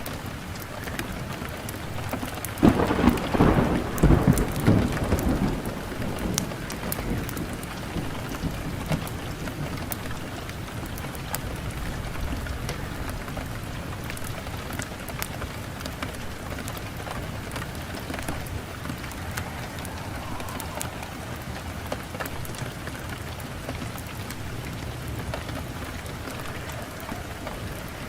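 Wood fire burning in a fireplace, crackling steadily with scattered sharp pops. A louder low rush of sound comes about three seconds in and fades over a couple of seconds.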